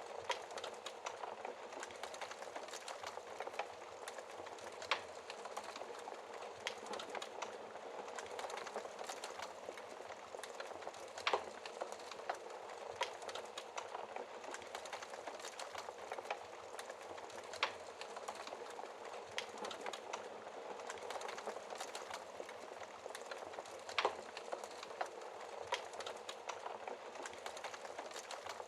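Wood fire burning in a fireplace: a steady dense crackle with sharp louder pops every few seconds.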